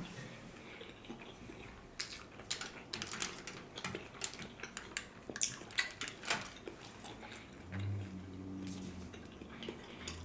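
Chopsticks clicking against dishes and a person chewing food up close, in a run of sharp irregular clicks. A low steady hum comes in near the end.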